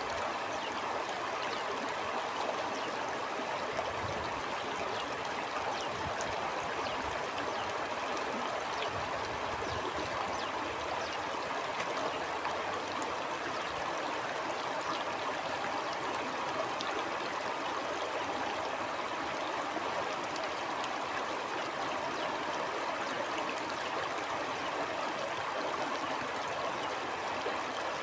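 Stream water flowing steadily, an even rush of water with faint small splashes and trickles through it.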